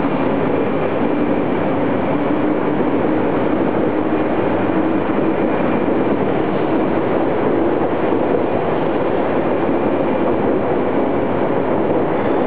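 200 series Shinkansen cars rolling past as the train pulls out of the station: a steady rumble of wheels on the track, with a faint hum that rises slowly in pitch as it gathers speed.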